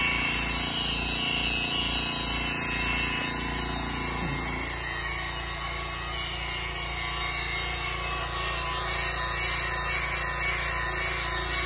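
Hitachi ZX110 MF hydraulic excavator running steadily while its bucket cuts and scrapes through an oil palm trunk.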